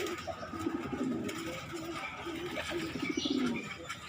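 Pigeons cooing: a run of short, low coos one after another, some with a quick fluttering pulse.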